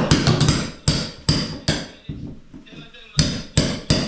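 Hammer blows, roughly two a second: a run of about six strikes, a pause of about a second, then three more.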